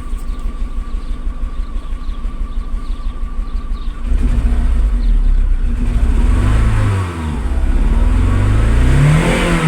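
Seat Ibiza II 1.4 16v petrol engine idling steadily, then revved about four seconds in, its pitch rising and falling twice. The engine is being checked for a cylinder 3 misfire (fault code P0303).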